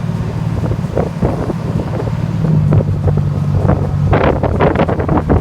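Fishing boat's engine droning steadily under way, stepping up in pitch about halfway, with wind buffeting the microphone that grows much stronger about four seconds in.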